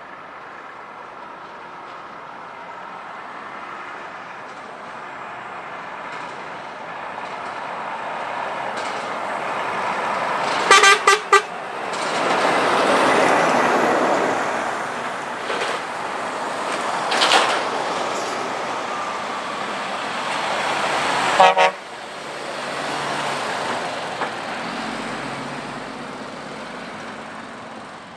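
Heavy trucks passing one after another, their engine and tyre noise swelling and fading. A truck horn gives three short toots about eleven seconds in and another toot about ten seconds later.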